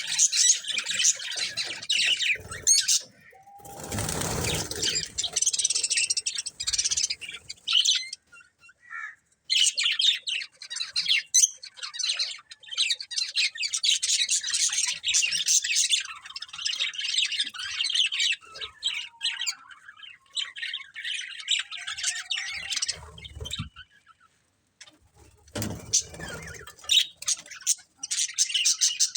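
Budgerigars chattering in fast, busy chirps and warbles, coming in long bouts with short pauses between. A low rustling bump comes about four seconds in, and another near the end.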